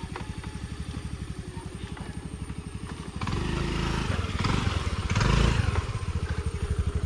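Motorcycle engine running with an even low beat; about three seconds in it turns louder and rougher as it speeds up.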